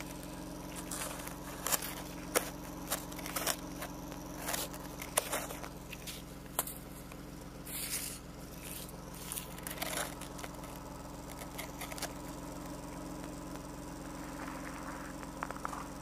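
BMW E34's M50TUB20 2.0-litre inline-six idling through the stock exhaust, a steady low hum, with scattered sharp clicks and taps over it.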